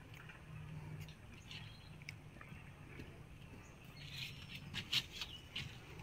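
Faint bird chirps, with a few short clicks and taps in the second half as a wooden block is handled and set down on the cement edge.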